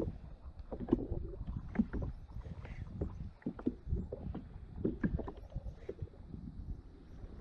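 Water lapping and slapping against a fishing kayak's hull, with a low rumble and irregular small knocks and bumps.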